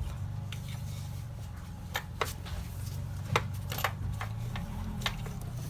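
Scattered light clicks and taps of hand tools, a socket and extension working a spark plug loose, with a steady low hum underneath.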